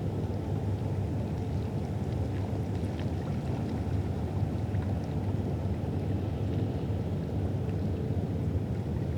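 Steady low rumble of riverside ambience on the Thames, even throughout, with faint scattered ticks above it.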